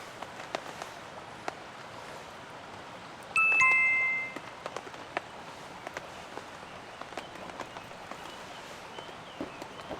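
Steady rain falling, with scattered drops ticking. About three and a half seconds in, a short two-note chime sounds, a higher note then a slightly lower one, ringing together for about a second.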